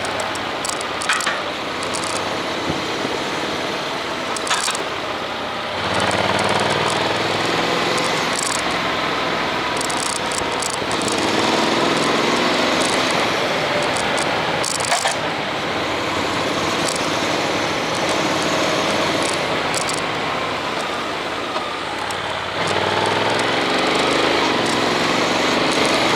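Honda X-ADV's parallel-twin engine running under way with steady wind and road noise; the engine picks up with rising pitch about six seconds in and again near the end as the bike accelerates.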